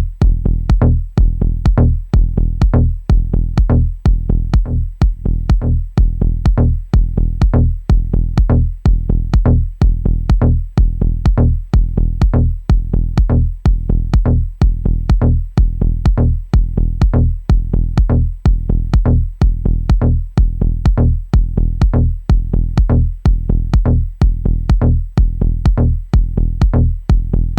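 Electronic dub-techno groove from Native Instruments Maschine: a steady four-on-the-floor drum-machine kick, about two beats a second, over a deep sustained bass.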